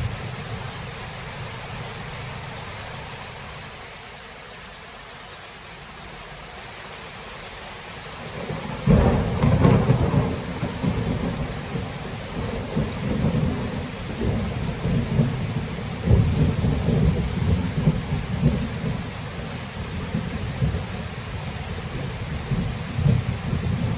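Steady rain with a thunderclap breaking suddenly about nine seconds in, then a long rolling rumble of thunder that swells again about seven seconds later.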